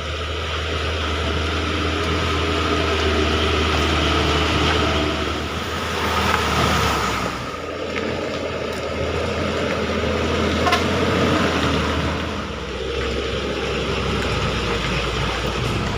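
Hino truck's diesel engine running under load as it climbs a slippery, muddy hill, with a steady low hum and the engine noise dipping twice.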